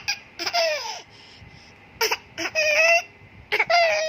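A small child's high voice imitating a rooster's crow: three drawn-out calls, the first sliding down in pitch and the later two held steady.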